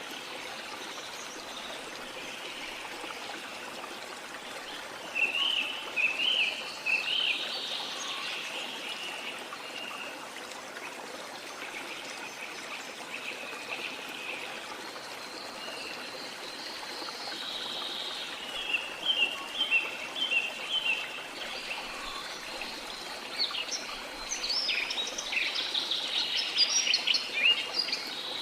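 A flowing river runs in a steady rush, with birds chirping over it. There is a burst of calls about five seconds in, a run of quick repeated chirps past the middle, and a busier stretch of chirping near the end.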